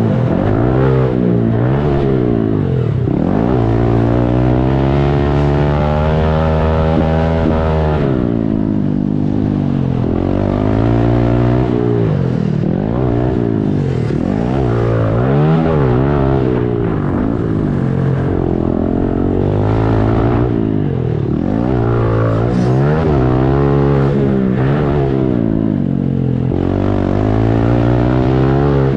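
Small single-cylinder four-stroke pit bike engines revving hard and backing off again and again, the pitch climbing and dropping with each burst of throttle and gear change. At times more than one bike can be heard at once.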